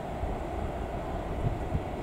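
Passenger train coaches rolling away on the rails, a steady low rumble from their wheels with a few soft low thumps.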